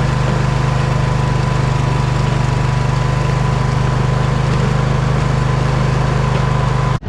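Poulan riding mower's engine running steadily, with a thin steady whine above the engine note; the sound cuts off abruptly at the very end.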